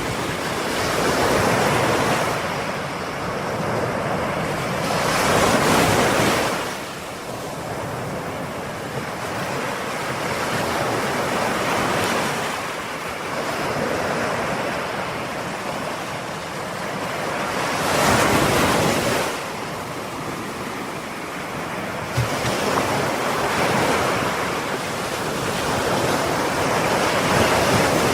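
Ocean waves breaking and washing on the shore, the surf swelling and ebbing in slow surges, with the biggest breakers about five seconds in, at about eighteen seconds and near the end.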